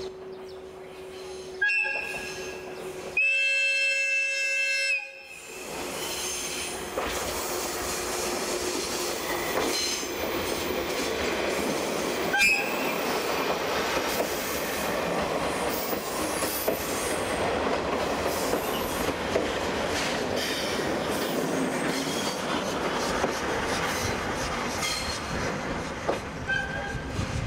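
A train with a diesel locomotive and steam locomotive C12 66 arriving at a station. A short horn blast is followed by a longer one of about two seconds. Then the train rolls in with steady rail noise and intermittent wheel squeal.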